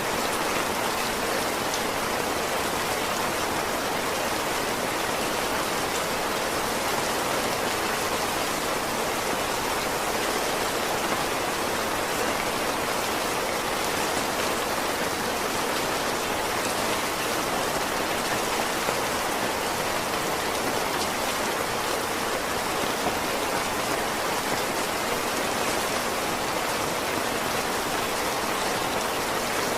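Heavy rain falling steadily, a dense, even hiss of drops that does not change.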